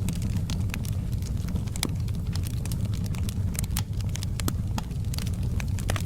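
Wood fire in a fireplace crackling, with frequent sharp irregular pops and snaps over a steady low rumble of burning.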